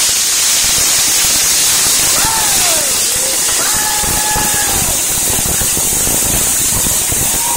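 Ground fountain fireworks spraying sparks with a steady loud hiss. A few long high tones sound over the hiss, the first falling in pitch about two seconds in, another near the end.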